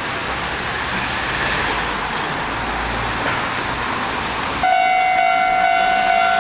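A Hankyu electric train running past with a steady rumble. About three-quarters of the way through it is abruptly replaced by a steady high-pitched tone that holds to the end.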